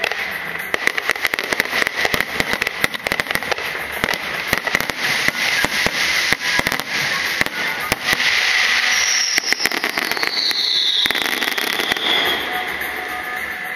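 Aerial fireworks going off in a dense run of rapid crackles and pops, then a hissing stretch with a whistle that falls in pitch about two thirds of the way through.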